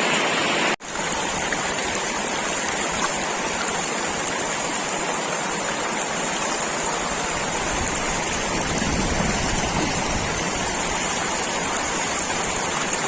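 Steady rush of flowing water, cut off by a brief dropout a little under a second in.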